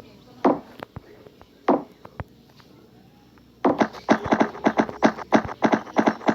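Horse hooves striking a hard surface: a few separate hoof strikes, then, a little past halfway, a quick, steady run of clip-clopping hoofbeats, about five a second.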